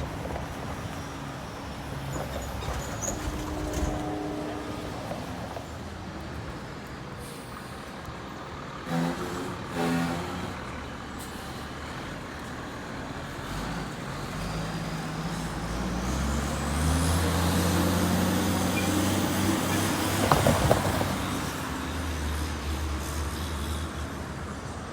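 A heavy road vehicle's engine pulls away, its low note climbing in pitch and loudest about 20 seconds in, with air-brake hiss and clatter. Two short horn toots come about 9 and 10 seconds in.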